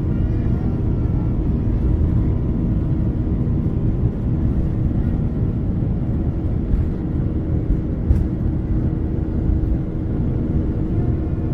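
Steady low rumble of a Boeing jet airliner heard inside the passenger cabin, the engines running with a constant tone. There is one brief click about eight seconds in.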